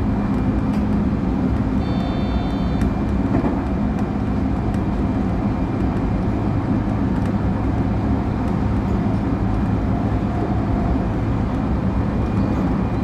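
Electric train running steadily, its wheels and running gear giving a constant low rumble heard from inside the front car, with occasional faint clicks from the track. A brief high-pitched tone sounds about two seconds in.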